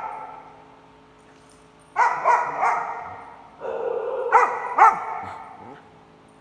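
Dog barking in two bouts, the first about two seconds in and the second about a second later, each a cluster of loud barks that trails off.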